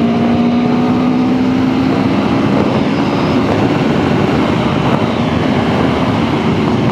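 Aprilia Tuono V4 1100's V4 engine pulling in 4th gear under steady, progressive throttle at road speed, its note rising slowly. After about two seconds heavy wind rush on the helmet microphone covers most of the engine note.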